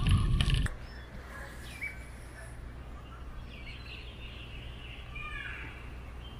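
Bicycle ride noise, rattling with wind rumble, cuts off abruptly under a second in. After that, birds chirp a few short calls over a quiet background with a low steady hum.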